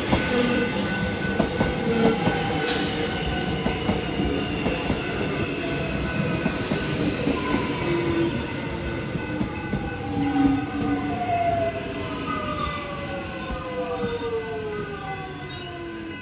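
Suburban electric train on the move, its motor whine with several tones falling slowly in pitch over the second half as it slows, with wheel and rail noise; the sound fades gradually toward the end.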